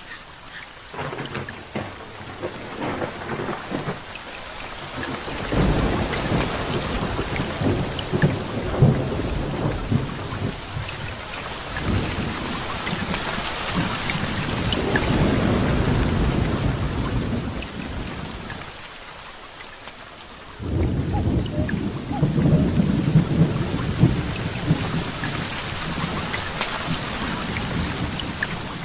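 Thunderstorm: steady rain falling, with long rolls of thunder rumbling over it, the first building about five seconds in, another through the middle, and a third breaking in suddenly about two-thirds of the way through.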